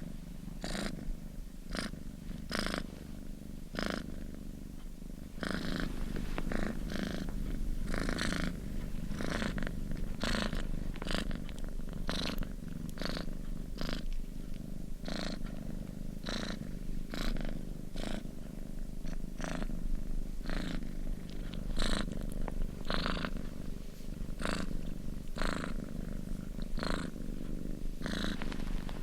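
Domestic cat purring steadily, recorded close up. Its low rumble is broken by short raspy pulses roughly once or twice a second.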